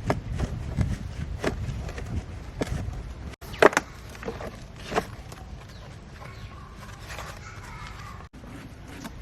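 Irregular clicks and knocks, the loudest a sharp knock about three and a half seconds in, with a faint wavering whine near the end.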